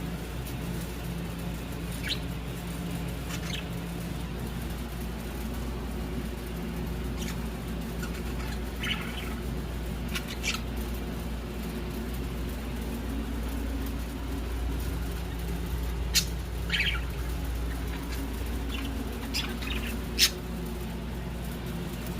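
Budgies giving short, scattered chirps and squawks, about eight over the stretch, the loudest near the end, over a steady low hum.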